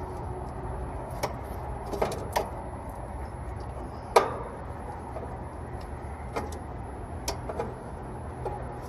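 Scattered light clicks and knocks of copper tubing and fittings being handled and fitted together. The loudest knock comes about four seconds in, over a steady low hum.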